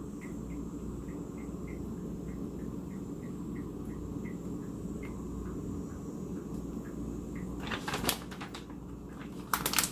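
Low steady kitchen hum with faint, irregular light ticks, then a few sharp clicks and rustles of hands handling food near the end.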